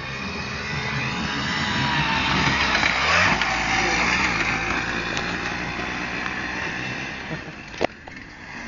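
Small off-road motorcycle engine revving as the bike rides past, getting louder to a peak about three seconds in, then fading as it moves away. A single sharp click near the end.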